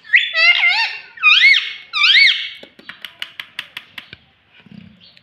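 Pet parrot making a series of loud, high squeaky calls that swoop up and down in pitch for the first two and a half seconds, followed by a quick run of sharp clicks.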